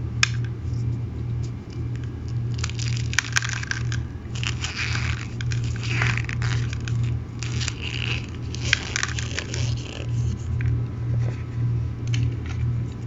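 Mini chunks of cornstarch crushed between the fingers: squeaky, crackly crunches in clusters, busiest through the middle, over a steady low hum.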